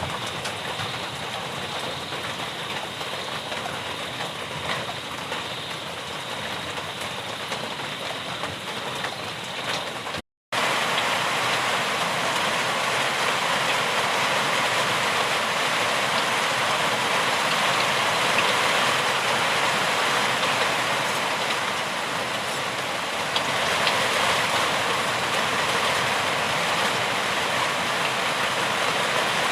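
Steady rainfall, a dense even hiss. It cuts out for a split second about ten seconds in, then comes back louder and brighter.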